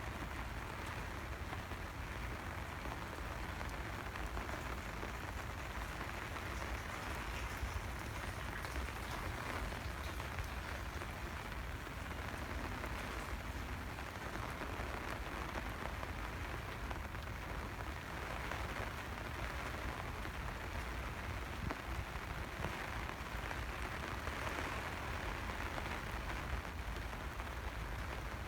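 Steady rain falling, an even continuous hiss of drops, with a low rumble underneath.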